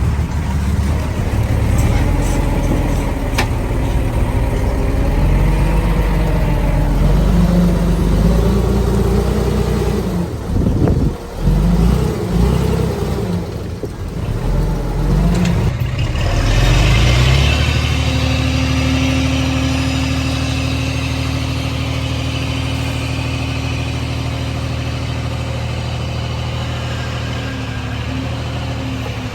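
Diesel engine of heavy earth-moving machinery working, its pitch rising and falling with the load for roughly the first half. From just past halfway it settles into a steady, even run at one speed.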